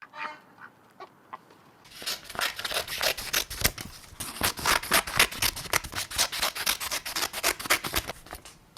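Scissors cutting paper: a rapid run of snips, several a second, beginning about two seconds in.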